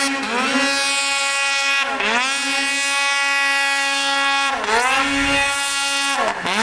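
2021 Arctic Cat Hardcore snowmobile's two-stroke engine with an aftermarket exhaust can, held at high revs. The revs dip and climb straight back three times as the throttle is briefly let off and opened again: about two seconds in, about four and a half seconds in, and near the end.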